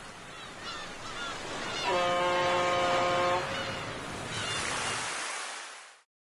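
A ship's horn sounds one steady blast of about a second and a half, over a wash of surf-like noise with short chirping calls; everything fades out to silence near the end.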